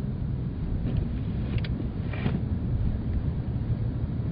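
Steady low rumble of a Chevrolet Blazer driving at about 22 mph on a snow-covered road, heard from inside the cabin. A couple of faint short sounds come about one and a half and two seconds in.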